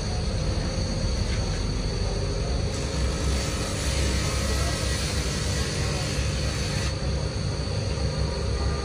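A power tool's electric motor running steadily, a continuous drone with a low rumble and a faint steady whine.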